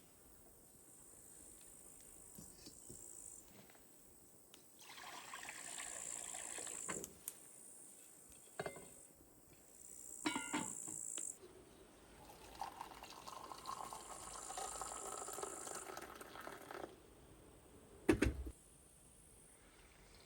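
Water being poured into a container in several spells of a second or more each, with a single knock near the end.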